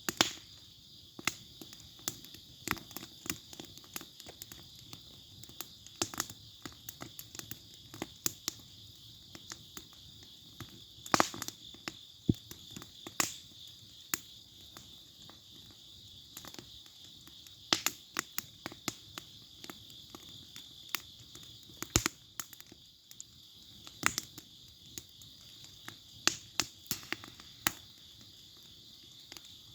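Wood bonfire crackling, with sharp pops that come irregularly and a few loud snaps among them. Insects chirp steadily underneath.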